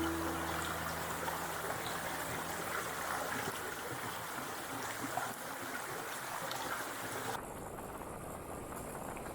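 Mountain stream or waterfall water rushing steadily. Near the end it cuts suddenly to a duller, quieter rush.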